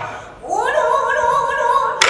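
A child's pansori singing voice. After a short breath it slides up about half a second in and holds one long, wavering note.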